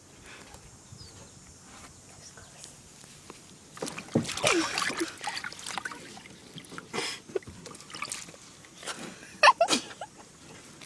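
Water splashing and sloshing in short bursts, about four seconds in and again near seven and ten seconds, as toys are moved about in the water.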